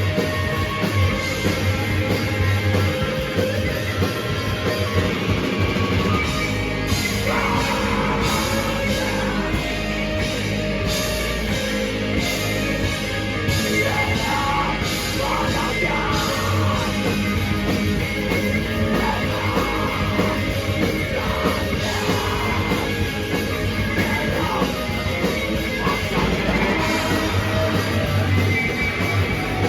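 Live rock band playing loud, with distorted guitars, bass and drums. Shouted vocals come in about seven seconds in and stop a few seconds before the end.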